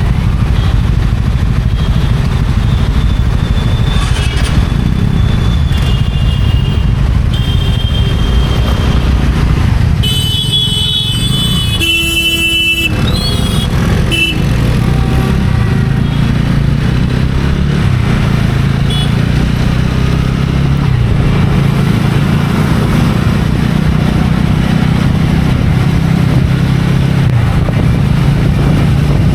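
TVS Ronin single-cylinder motorcycle engine running steadily on the move. A vehicle horn sounds for about three seconds around the middle.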